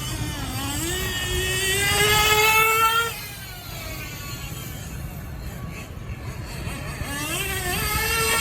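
Small nitro engine of a 1/8-scale Intech RC buggy with an Alpha engine, revving at high pitch. Its note climbs over about three seconds, drops off sharply, runs quieter, then climbs again near the end.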